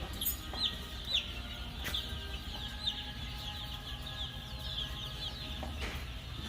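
Many baby chicks peeping together, a steady stream of short, overlapping, falling cheeps, over a steady low hum.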